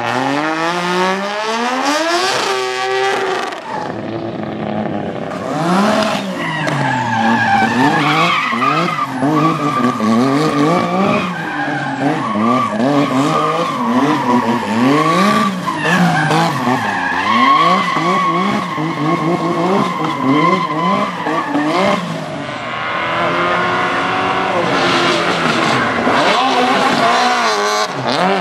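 A car drifting: its engine revs rise and fall again and again as the throttle is worked. A steady tyre squeal sounds through the middle of the stretch.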